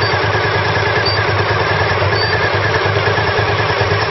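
Car engine running with a steady low hum, heard from inside the cabin, while the transmission is stuck in third gear.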